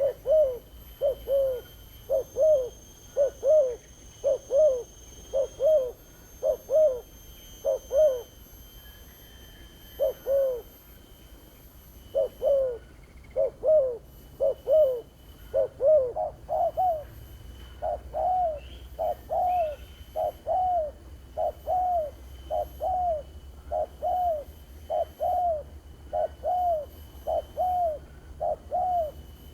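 Spotted dove (terkukur) cooing in a long run of short, rounded notes, about three every two seconds, with a brief break about a third of the way in.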